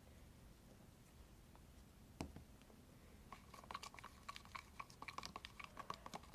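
A utensil stirring a glue-and-borax slime mixture in a container: one sharp knock about two seconds in, then fast, irregular clicking and scraping against the container's sides from about three seconds in.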